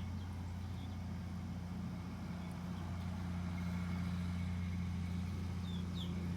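A vehicle engine idling steadily: an even low hum that grows slightly louder about halfway through.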